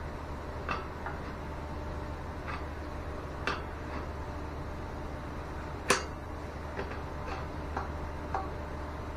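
Light, irregular clicks and taps of small metal fittings and tools being handled, with one sharper knock about six seconds in, over a steady low hum.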